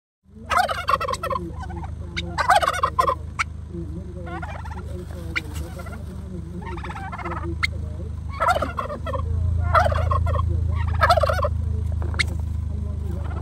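Turkeys gobbling: about seven separate short rattling gobbles spread through a few seconds each apart, over a steady low hum that gets louder about nine seconds in.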